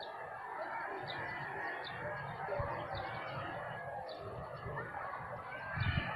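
Chickens clucking, with many short high chirps over them. Two low thumps, the louder one near the end.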